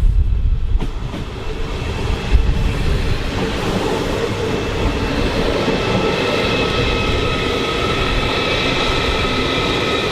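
Train moving along the platform track: a low rumble with a steady high whine of several tones that builds up over the first few seconds and then holds.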